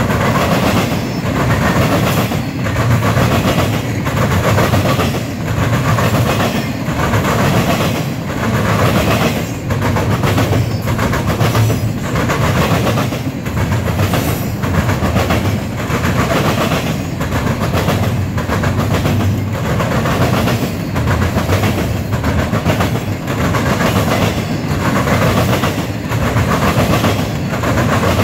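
Double-stack intermodal train's well cars rolling past at speed: a steady rumble with a regular, repeating clickety-clack of wheels over the rail joints.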